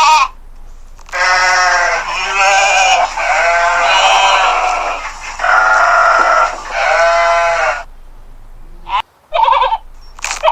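Sheep bleating repeatedly: a run of long, quavering bleats, some overlapping, followed by a few short bleats near the end.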